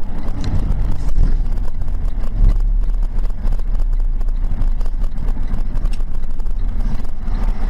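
Steady low rumble of a vehicle driving: engine and road noise picked up by a dash cam.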